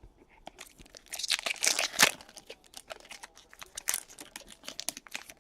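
A trading card pack's foil wrapper being torn open and crinkled by hand: a dense burst of crackling and tearing about a second in, then scattered small crinkles and clicks.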